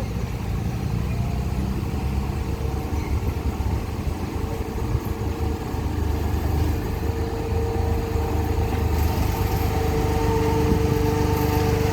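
Locomotive engine idling: a steady low rumble with a faint hum that grows stronger in the second half.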